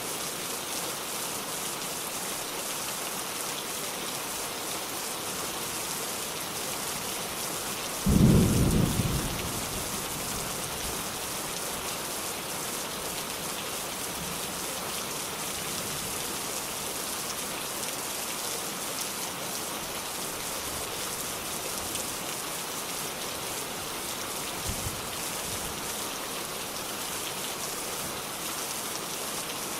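Steady rain falling with an even hiss. About eight seconds in, a single short low thunder clap stands out as the loudest sound, fading within a second or two, and near the end there is a brief faint low knock.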